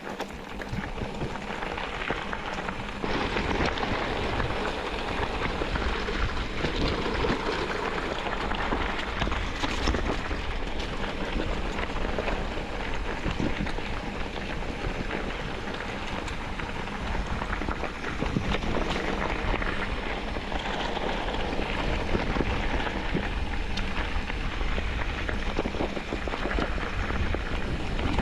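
Vehicle driving on a rough gravel road: steady rumble with a dense crackle of tyres on loose stones.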